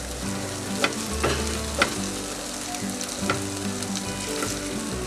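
Chopped onion and capsicum with garlic and ginger paste sizzling in hot oil in a non-stick frying pan, stirred with a silicone spatula. There are a few sharp clicks as the spatula strikes the pan.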